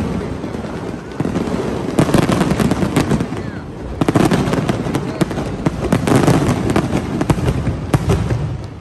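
Fireworks display: a dense run of explosions and crackling pops, coming in clusters about every two seconds.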